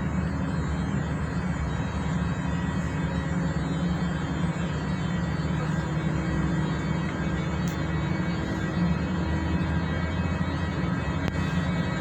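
Steady mechanical hum of a KZ4AT electric locomotive, even in level throughout with a low drone and a few fixed higher tones.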